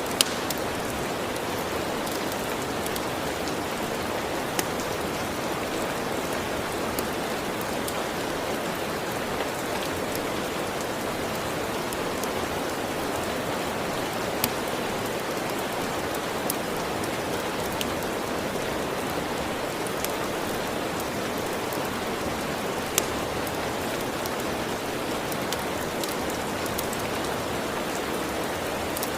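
Steady rain with a few sharp, isolated pops scattered through it, the crackle of a wood fire.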